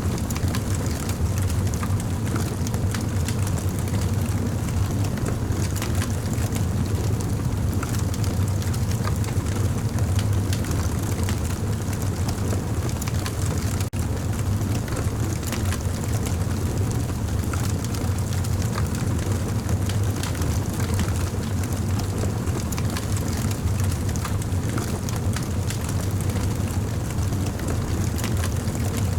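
Campfire burning: a steady low rumble of flames with scattered small crackles and pops.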